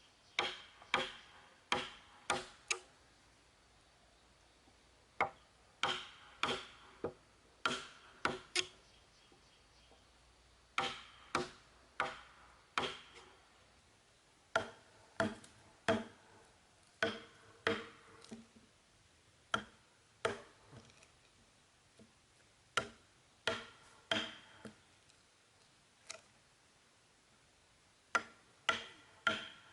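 Repeated sharp blows of a hand tool on wood, in runs of two to six strikes about half a second apart with short pauses between runs, each blow ringing briefly.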